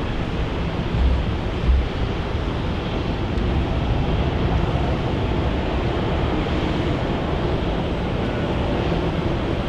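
Wind buffeting the microphone over a steady rushing noise, with two stronger gusts about one and two seconds in.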